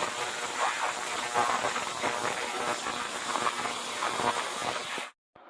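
Heated cleaning bath with a tractor part soaking in it, hissing and crackling steadily; the sound cuts off suddenly near the end.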